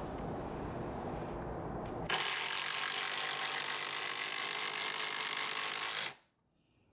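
Cordless impact driver running and hammering for about four seconds: it starts sharply about two seconds in and stops abruptly near the end, after a low rumble.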